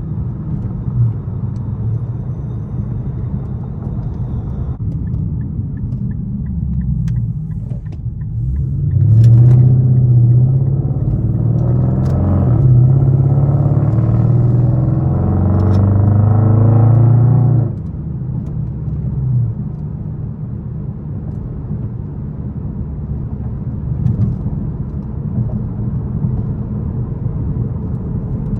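Straight-piped Infiniti M56's 5.6-litre V8 exhaust rumbling at light throttle. About nine seconds in it gets much louder under acceleration for some eight seconds, then drops suddenly as the throttle closes and it falls back to a low cruising rumble.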